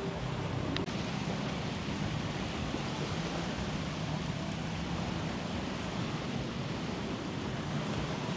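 Shoreline ambience: the steady wash of surf, with a faint low hum underneath and a single brief click a little under a second in.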